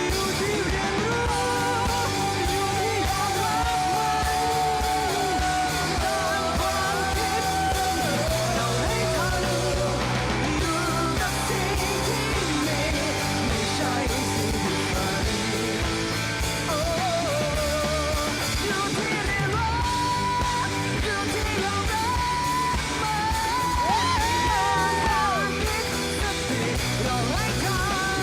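Rock-style band music with guitar: a melody carried in long wavering held notes over a steady bass line.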